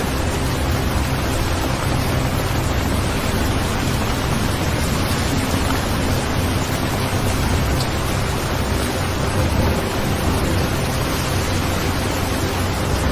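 Steady, even rain with a continuous low rumble underneath.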